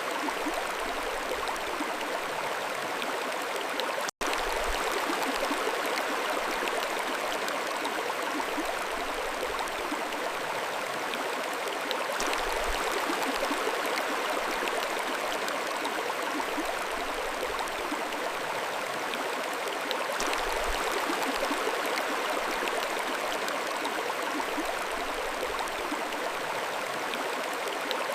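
Mountain stream flowing: a steady rush and babble of water. The sound drops out completely for an instant about four seconds in.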